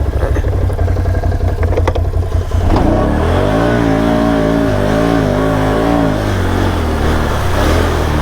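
ATV engine running with a low rumble and a few clacks, then from about three seconds in revving up and down over and over, its pitch wavering, as a four-wheeler works in thick mud.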